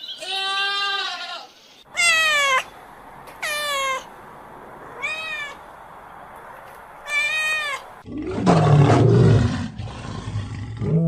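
The tail of a steady bleat-like call. Then a cat meowing four times, each meow short, falling or arching in pitch. Then, about eight seconds in, a loud, deep, rasping roar of a big cat begins and is the loudest sound.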